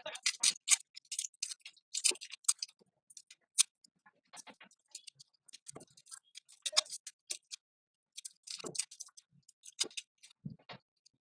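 Irregular clicks, taps and light scratches of small buffing-kit parts being handled: a buffing pad and its screw mandrel for a drill.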